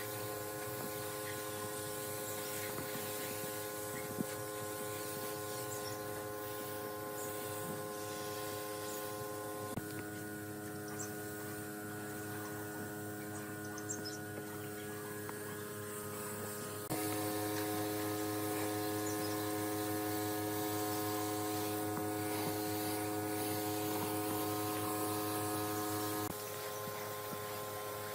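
Steady electric motor hum made of several even tones. It changes pitch and level abruptly about a third of the way in and again past the middle, and is louder for a stretch before dropping back near the end.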